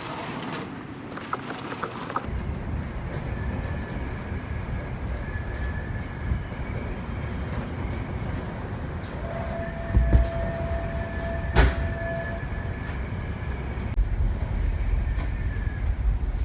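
Staten Island Ferry under way: a steady low rumble of the vessel's engines and hull that sets in about two seconds in. A faint steady tone sounds for about three seconds midway, and there is a single sharp click shortly after it starts.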